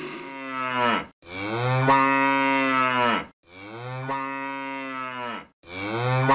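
Cow mooing: a short moo, then three long moos of about two seconds each with brief gaps between them, each sliding down in pitch as it ends.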